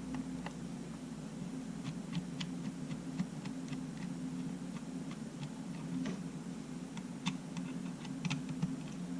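About fifteen light, irregular clicks and ticks from handling a Sony A7 camera body during repair, over a steady low hum.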